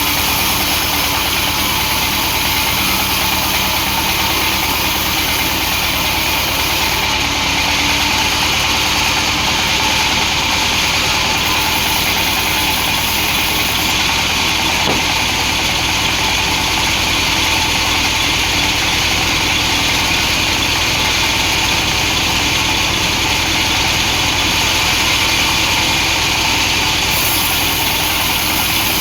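Engine-driven sawmill (gergaji slendang) running steadily: a continuous engine drone with a steady hiss over it as it works through hardwood.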